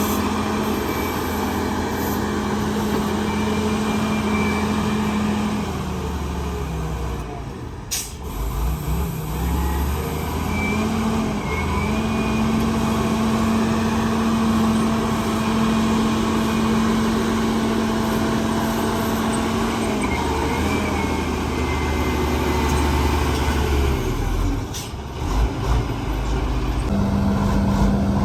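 Heavy diesel earthmoving machinery running steadily. The engine note sags about six seconds in and picks up again after about nine seconds, then eases off again near the end. A brief sharp hiss comes about eight seconds in.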